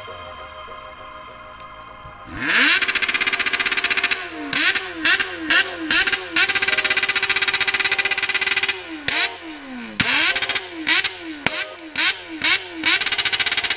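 Motorcycle engine revved hard again and again: quick throttle blips that rise and fall in pitch, with a couple of seconds held at steady high revs midway. It starts about two seconds in, after a quieter moment.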